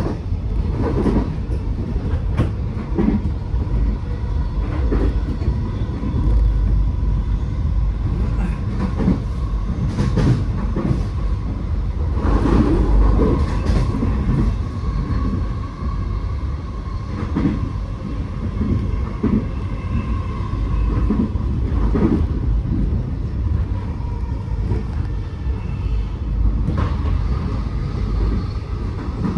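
Electric suburban passenger train running at speed, heard from inside the carriage: a steady low rumble of wheels on rail, with irregular clacks over the rail joints and a thin steady whine.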